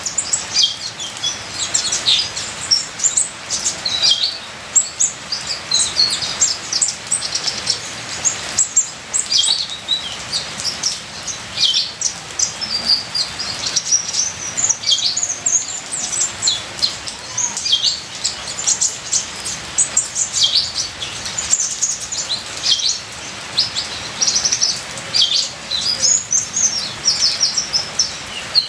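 Kolibri ninja sunbird singing a fast, unbroken stream of high, thin chirps and trills over a steady trickle of water.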